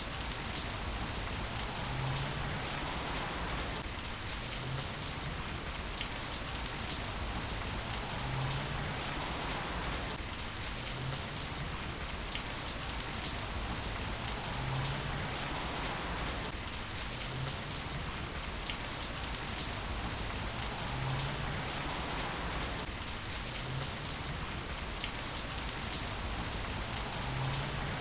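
Heavy rain falling steadily: a dense hiss of drops with scattered sharper drop hits.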